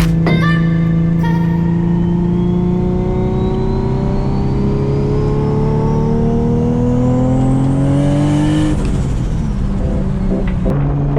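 Turbocharged car engine revving up steadily for about six seconds with a rising turbo whine, then lifting off sharply near the nine-second mark, over background music.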